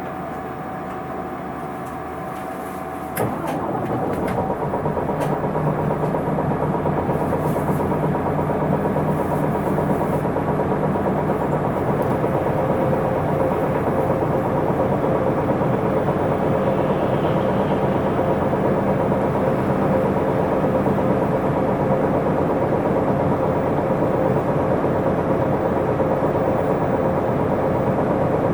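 Isuzu Erga city bus's 5.2-litre four-cylinder turbo diesel starting about three seconds in with a sharp click and a step up in loudness, then idling steadily while the bus stands at the stop.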